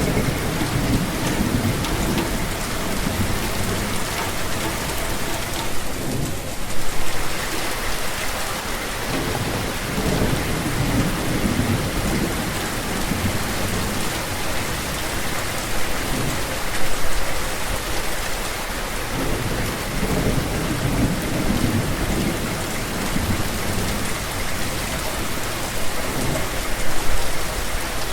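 Steady rain with low thunder rumbling that swells and fades several times, with louder peaks about a quarter of the way in, a little past the middle, and near the end.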